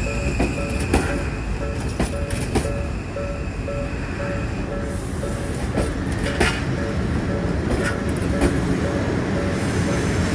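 Odakyu Romancecar EXEα electric train rolling past over a level crossing: a steady wheel rumble with sharp clacks here and there as the wheels cross rail joints. Under it the crossing's warning bell rings on and on in an even, repeating pattern.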